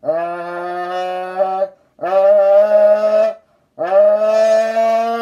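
A person imitating a car engine revving with their voice. Three long notes, each sweeping up quickly in pitch and then holding, with short breaks between.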